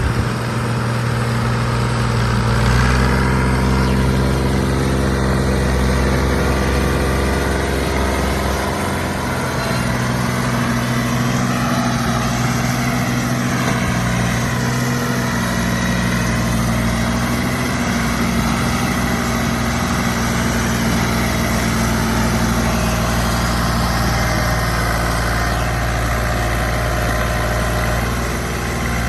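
Fiat 480 tractor's three-cylinder diesel engine running steadily, its note shifting a little about three and nine seconds in.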